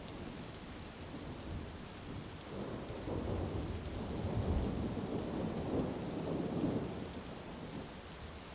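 Steady heavy rain with a long roll of thunder that builds about two and a half seconds in, swells twice and dies away near the end.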